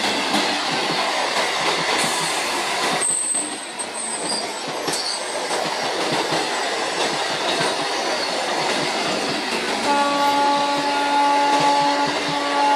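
Electric multiple-unit local train running past close by, its wheels on the rails making a steady, loud rumble and clatter. About ten seconds in a train horn starts sounding, one steady multi-note chord that holds on with a short break.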